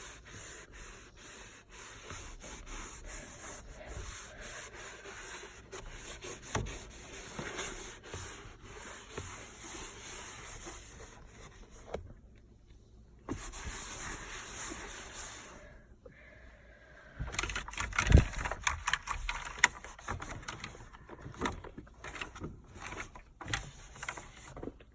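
Cloth scrubbing and wiping over a car's interior surfaces: a steady rubbing, broken by many small clicks and knocks, with louder bumps and knocks in the last third.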